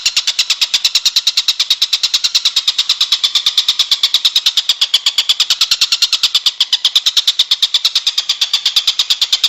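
Masteran songbird-tutor recording: a high, rapid trill of evenly spaced pulses, about ten a second, repeating without a break.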